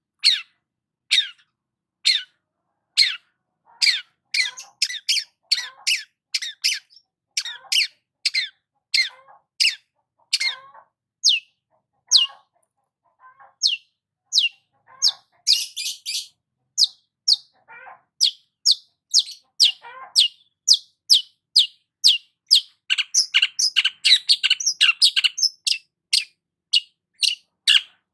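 Long-tailed shrike (cendet) singing: a string of short, sharp, downward-sweeping notes, about one a second at first and quickening to two or three a second. A harsh rasping note comes about halfway through, and the notes run into a denser chatter later on.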